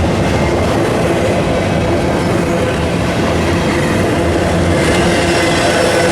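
A train rolling past close by: a loud, steady rumble of wheels on rail with a low engine tone, and higher-pitched tones, likely wheel or flange squeal, joining in about five seconds in.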